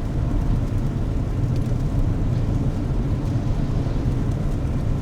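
Car interior road noise: a steady low rumble of engine and tyres heard from inside the cabin while driving.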